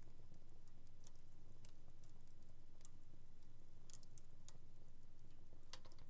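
Wood fire in a home fireplace crackling: scattered sharp pops and snaps a second or so apart, over a faint steady low hum.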